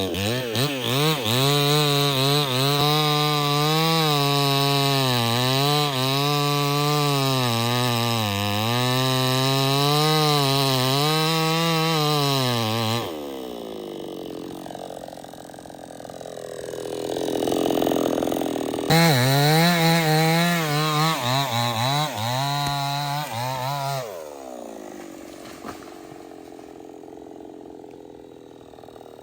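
Large two-stroke 070 chainsaw cutting into a teak trunk, its engine note dipping and recovering as the chain bites under load. About halfway through, the saw falls away for several seconds. It cuts again briefly, then drops to a quieter, lower running sound near the end.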